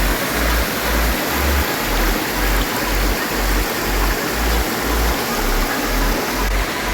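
The Radovna river rushing through a gorge: a steady, dense wash of water noise, with an uneven low rumble underneath.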